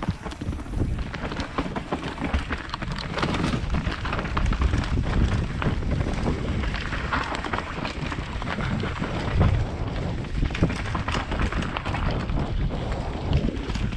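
Mountain bike descending a rough trail: wind buffeting the microphone, with tyres on dirt and the bike rattling in a constant stream of small knocks and clatters.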